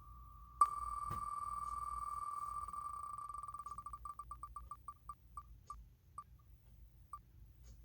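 Ticking of a computer spin wheel's sound effect: a fast run of clicks that blur into a steady beep, then slow down over several seconds and stop as the wheel comes to rest on a letter.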